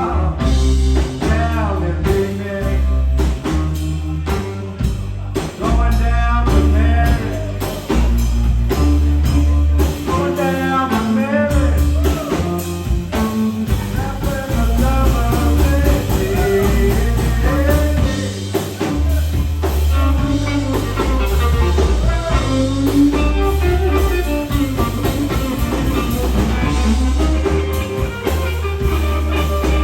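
Live blues-rock band playing loudly: guitar, bass guitar and drum kit over a heavy, pulsing bass line, with singing over it.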